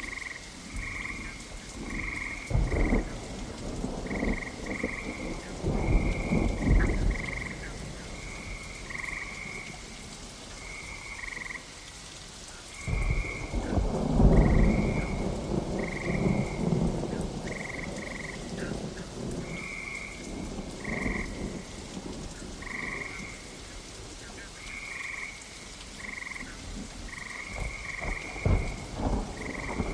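Steady rain with long rolls of thunder: one in the first quarter, a louder one about halfway through, and another starting near the end. Throughout, an animal repeats short, high, evenly pitched calls about once a second.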